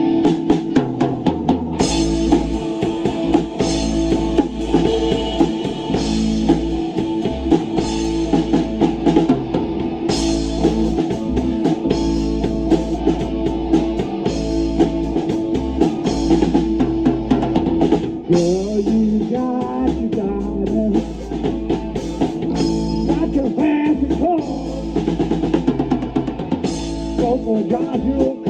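Rock band playing live: a drum kit with kick drum and cymbal crashes about every two seconds, over bass and electric guitar.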